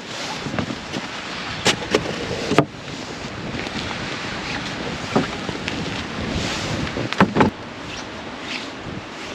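Steady rushing wind, with a few sharp knocks or clicks about two seconds in, in the middle and twice close together near the end.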